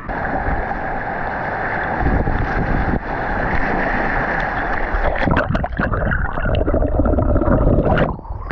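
Rushing whitewater around a kayak, with wind rumbling on the microphone. A flurry of paddle splashes comes about five seconds in and another near the end.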